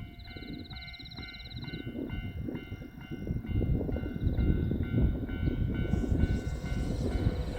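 Japanese level-crossing warning bell ringing in a steady repeating ding, about three strikes a second. The rumble of an approaching Kintetsu electric train grows louder about halfway through.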